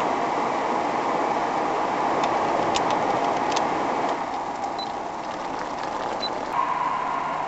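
Automatic car wash running: a steady rushing noise that eases a little about four seconds in, with a few sharp clicks, and a steady tone with a low hum starting near the end.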